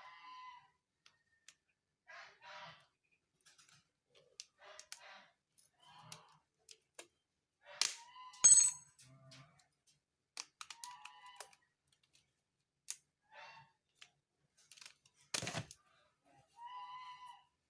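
Scattered sharp clicks and knocks of things being handled during an unboxing, the loudest a sharp click about eight and a half seconds in, with short clucking calls of chickens coming and going in the background.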